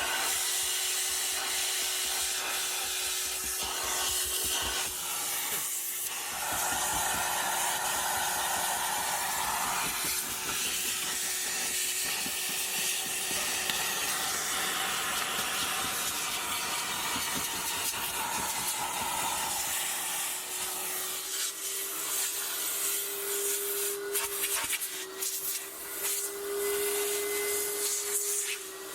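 Car-detailing cleaning work: a steady hiss with a constant motor hum, with rubbing sounds mixed in. The hum grows louder and wavers slightly in pitch over the last third.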